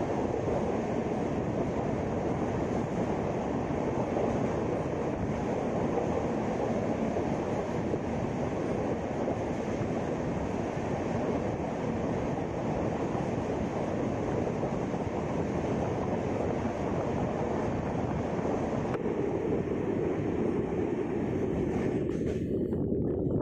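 Steady running rumble of a moving express train heard from aboard a passenger coach. The higher hiss thins out about nineteen seconds in.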